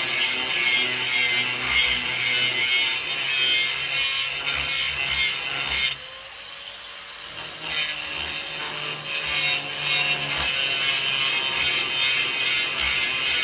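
Power grinder working steel floor metal and weld in a corner, a steady harsh grinding with the motor's hum underneath. About six seconds in the disc comes off the metal for a second or two, leaving the motor spinning more quietly, then goes back into the cut.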